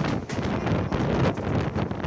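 Wind buffeting the microphone of a phone filming from the window of a moving express train, over the steady running noise of the train.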